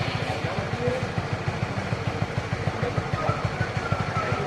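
Motorcycle engine running steadily with a fast, even putter of about ten beats a second.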